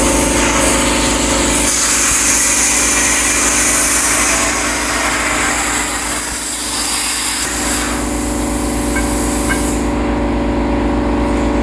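A machine running steadily with a constant hum and a loud hiss over it; the hiss drops away near the end while the hum carries on.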